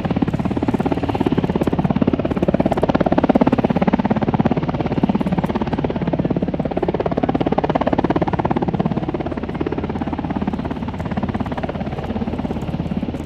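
Aircraft flying past with a finely pulsing rotor or propeller sound, loudest a few seconds in and then slowly fading.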